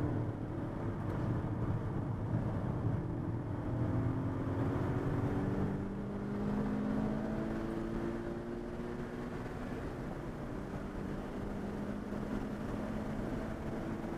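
Car engine heard from inside the cabin under acceleration on a racetrack, its pitch climbing slowly in several long rises, over a steady low road and tyre rumble.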